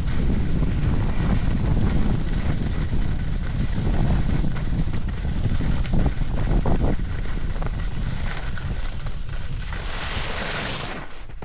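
Wind buffeting the microphone in a steady low rumble, the way it does on a camera carried down a ski run. A brighter hiss rises about ten seconds in, then the noise falls away near the end.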